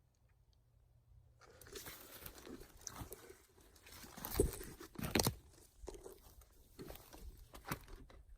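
Irregular crunching and rustling of twigs and leaf litter on a forest floor, with two louder snaps about four and five seconds in.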